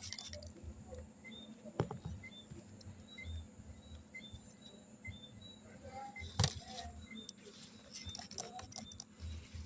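Hand tool working a refrigerant line's flare fitting: scattered light clicks and knocks, with one sharp click about six and a half seconds in. A faint short high chirp repeats about every two-thirds of a second.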